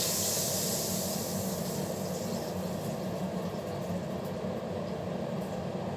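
Steak sizzling in a hot pan with a steady hiss and faint crackles. The hiss eases after about two seconds, over a steady low hum.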